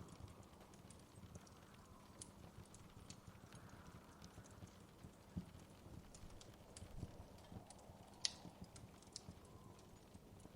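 Quiet crackling of a wood fire in a fireplace: scattered small pops and ticks over a low rumble, with one sharper pop about eight seconds in.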